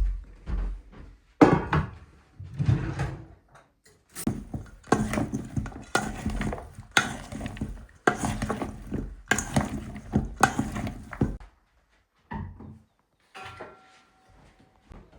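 Household clatter of hard objects: repeated knocks and scrapes, about one a second for several seconds, then a few scattered small knocks.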